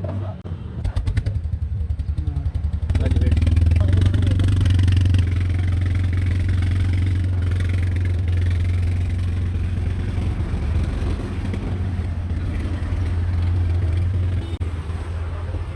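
An engine running with a steady low drone, which swells and grows louder about three seconds in, after a brief quick run of ticking.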